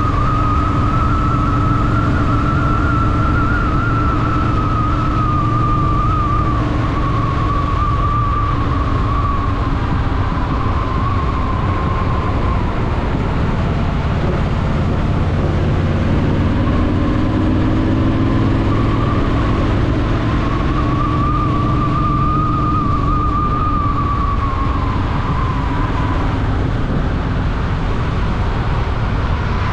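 Honda Shadow VT750's V-twin engine running under way in city riding, its pitch rising for a few seconds past the middle as the bike speeds up. A wavering high tone rides over it for long stretches at the start and again later.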